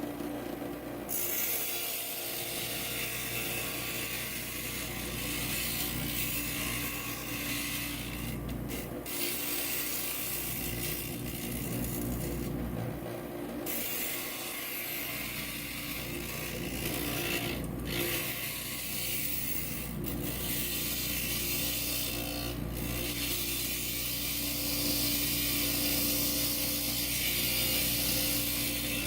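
Glass grinder motor running with a steady hum while its diamond bit grinds the edge of a stained glass piece, a high gritty hiss that drops out briefly several times as the glass is lifted off the bit.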